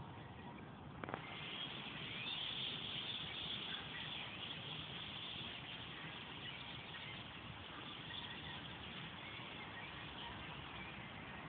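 A huge flock of blackbirds calling all at once, a dense, steady din of overlapping chattering calls heard through a phone microphone. It swells a little about a second in.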